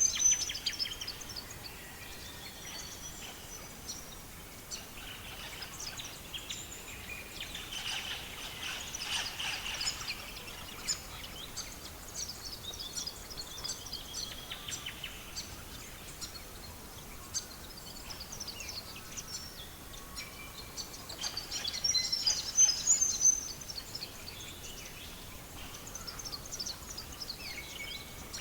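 Songbirds chirping and trilling, with louder bursts of song near the start and again about three-quarters of the way through, over a steady faint hiss and scattered small crackles of a wood fire.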